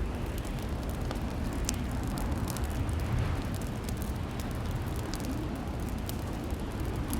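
Fireplace crackling: a steady low roar of burning logs with frequent small, sharp pops and snaps scattered throughout.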